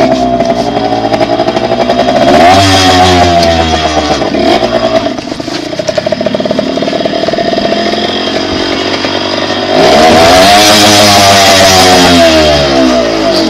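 Dirt bike engine running under throttle. It revs up about two seconds in, and again, louder, from about ten seconds in, its pitch rising and falling, then it eases off near the end.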